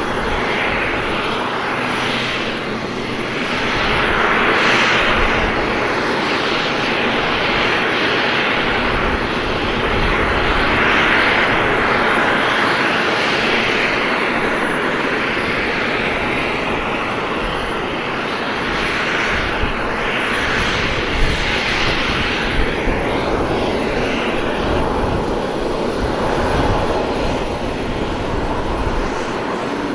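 An F-22 Raptor's twin Pratt & Whitney F119 turbofans during a demonstration flight: a loud jet rush that swells and fades several times as the aircraft manoeuvres. Wind buffets the microphone throughout.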